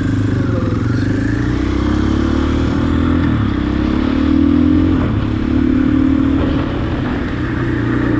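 Husqvarna dirt bike engine running under way, its revs rising and easing off in a few swells and loudest about halfway through.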